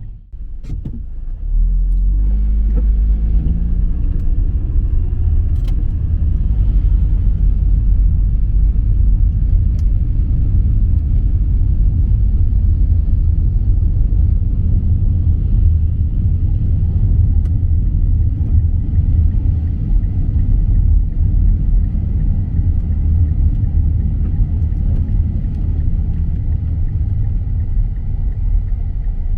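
A motor vehicle running with a steady low rumble, its pitch rising briefly about two seconds in.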